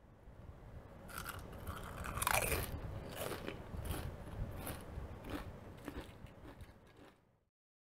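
Close-miked crunching and chewing of chips: irregular sharp crunches, the loudest about two seconds in, stopping abruptly shortly before the end.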